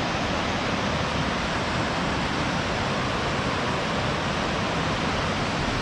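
Steady, even rush of fast-flowing mountain stream water.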